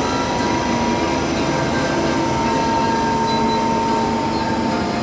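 MTR Disneyland Resort Line M-Train running, heard from inside: a steady rumble with a high, even whine from the traction motors.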